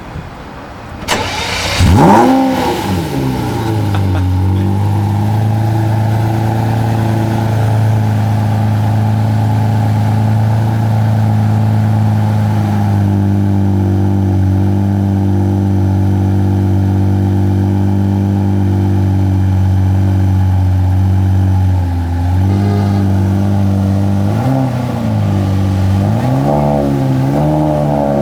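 Lamborghini Murciélago LP670-4 SuperVeloce's 6.5-litre V12 with a decatted Tubi exhaust starting: a short crank, then it fires and flares up sharply before settling into a steady idle. Near the end it gets a few light blips of the throttle.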